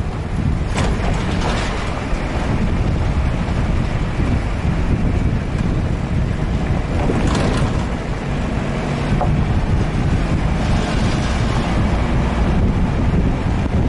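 4x4 jeep driving: steady engine and road rumble with wind buffeting the microphone, surging louder a few times.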